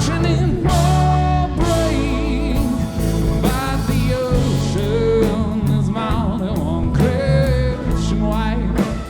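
Live band music: drums and bass under a wavering lead melody line in an instrumental passage, with no sung words.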